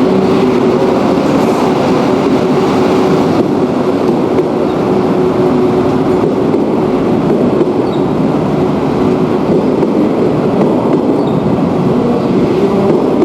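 Train noise: a steady, loud rumble with a low hum held throughout.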